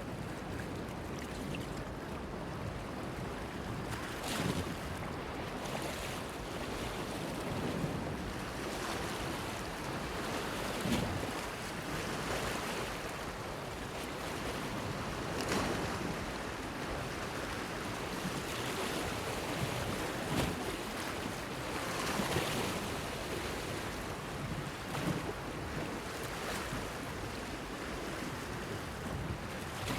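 Sea waves washing against a breakwater: a steady wash broken by louder splashes every few seconds.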